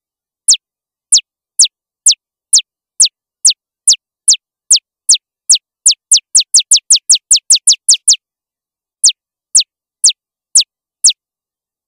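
A synthesized electronic chirp sound effect, like a laser zap, repeated: each one a short, high tone sweeping quickly downward. The chirps come about two a second, speed up to about five a second around six seconds in, pause briefly after eight seconds, then five more follow at the slower pace.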